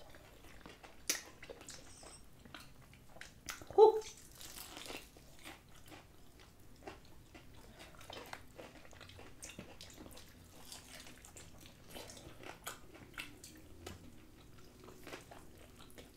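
Close-up eating sounds of crispy battered fried chicken wings being bitten and chewed: scattered crunches and mouth clicks. One short, loud pitched sound about four seconds in.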